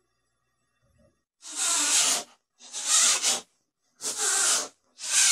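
Rhythmic rubbing strokes, a hissing scrape about once a second, each stroke just under a second long, beginning about a second and a half in.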